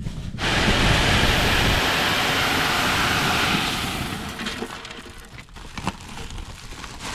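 Loose shelled corn pouring out in a loud, steady rush that starts abruptly and tapers off after about three and a half seconds, followed by a few scattered clicks.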